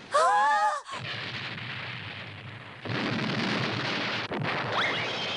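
Cartoon explosion sound effect: a brief loud cry, then a long, dense explosion blast that swells again about three seconds in, with a short rising whistle near the end.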